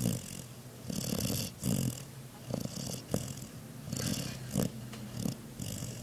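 A German shepherd snoring in its sleep: rough, rasping snores with each breath, in a steady rhythm about every second or so.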